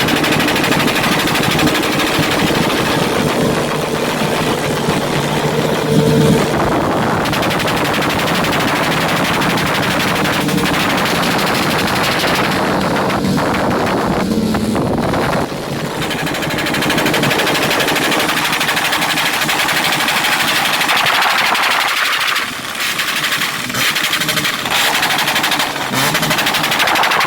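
Motorcycle engine held hard against its rev limiter, the ignition cutting in and out in a rapid stuttering rattle.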